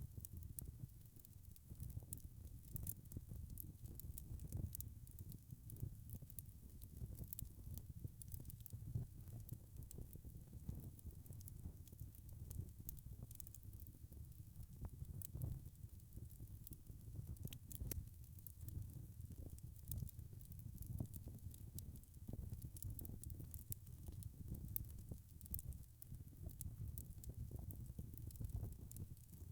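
Wood fire burning in a fireplace: frequent small, irregular crackles and pops over a faint, steady low rumble of the flames.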